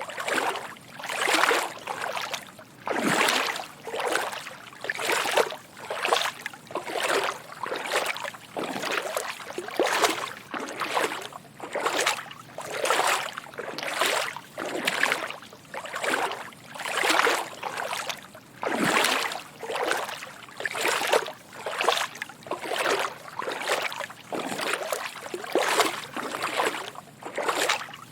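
Footsteps wading through shallow water: soft sloshing splashes in a steady walking rhythm, a little more than one step a second.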